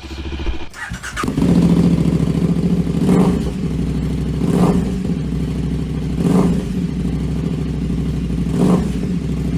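2006 KTM SMC 625's single-cylinder engine running, louder from about a second in, with the throttle blipped in four short revs.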